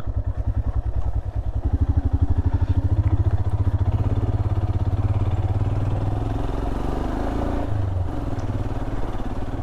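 Royal Enfield Himalayan's 411 cc single-cylinder engine running at low road speed with an even, pulsing beat, picking up a little about a second and a half in and easing off slightly later on.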